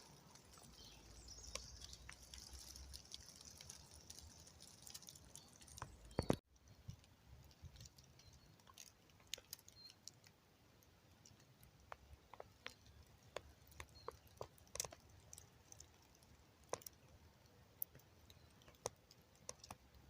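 Faint, scattered clicks and crackles, with one louder thump about six seconds in that is followed by a sudden drop in sound.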